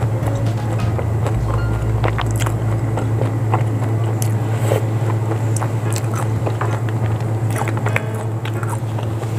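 Close-miked chewing of a mouthful of bakso aci, chewy tapioca meatballs, with scattered small mouth clicks. A steady low hum runs underneath.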